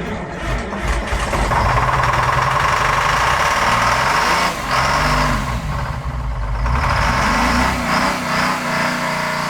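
Starboard Detroit Diesel marine engine cranking and catching about a second in, then running with its speed rising and falling; its first start after sitting idle for at least two years.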